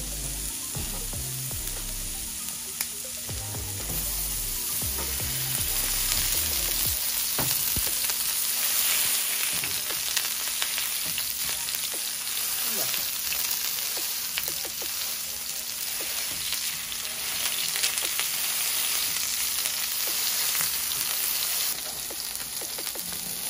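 Ground-beef burger patties sizzling in hot oil in a frying pan over high heat, with thin scrapes and clicks of a spatula pressing them flat. The sizzle gets louder a few seconds in and drops noticeably quieter near the end.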